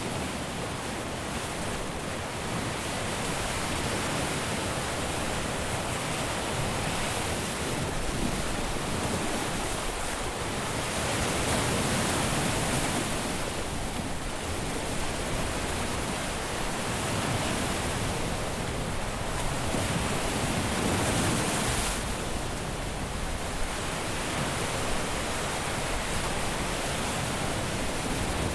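Caribbean surf breaking and washing on a beach: a continuous hiss of waves that swells and ebbs every few seconds, with stronger breakers about twelve and twenty-one seconds in.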